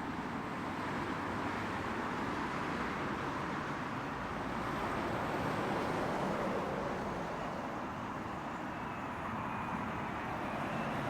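Steady outdoor rumble of distant engines and traffic, swelling slightly midway and easing off again.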